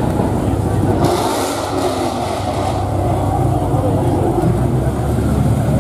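Car engine and exhaust running as a car drives by, with people talking over it.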